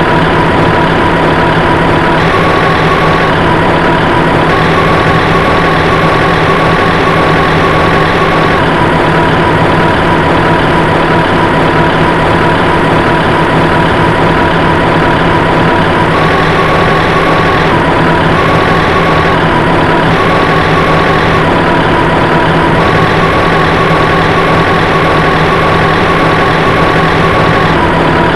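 A heavy engine running steadily at an even loudness, with a high whine that shifts back and forth between two close pitches every second or two.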